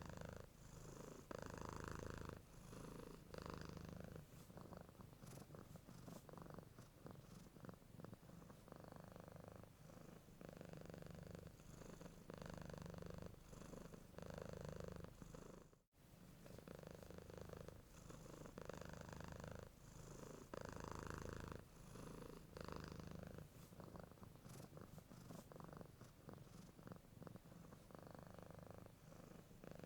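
A domestic cat purring softly and continuously, the purr swelling and easing in a steady rhythm of in- and out-breaths. It drops out very briefly about halfway through.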